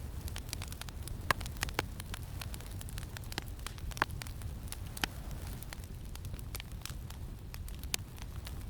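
Campfire crackling: a steady stream of small sharp pops and snaps, a few louder ones, over a constant low wind rumble.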